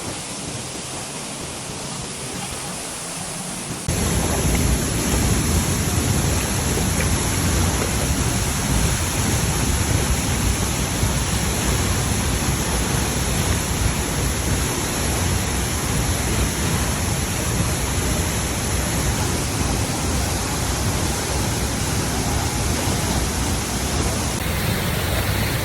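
Steady rushing roar of a waterfall, jumping suddenly louder about four seconds in.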